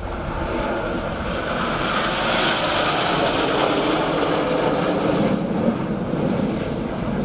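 A formation of BAE Hawk T1 jets, each with a single Adour turbofan, flying past. The jet noise builds over the first couple of seconds, then deepens as the jets go by.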